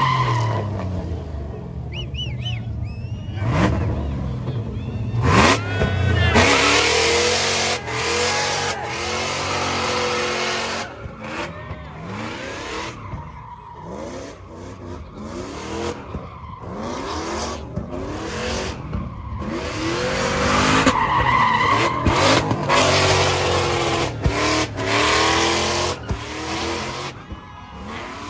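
Truck engines revving hard, again and again, with their pitch climbing and falling, and with noisy stretches that fit tyres spinning.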